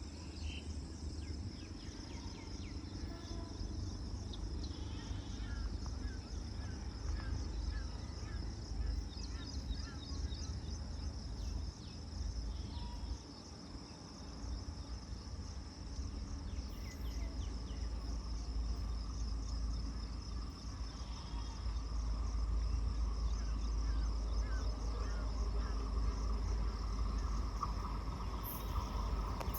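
Steady chirring of crickets or similar insects, with a continuous low rumble underneath and a scatter of short higher chirps.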